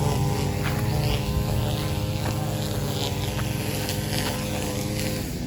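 An engine running steadily with an even, unchanging hum, its pitch dipping slightly near the end.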